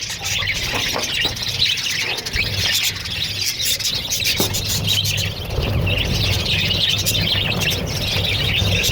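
A flock of caged parrots chirping and calling together in continuous overlapping chatter, over a low steady hum.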